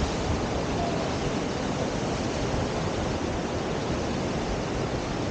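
Steady rushing of river water pouring over a standing river surf wave.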